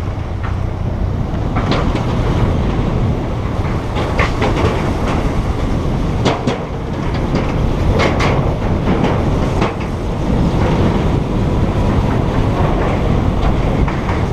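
Motorcycle on the move: a steady engine and road rumble, with scattered clattering knocks and clicks.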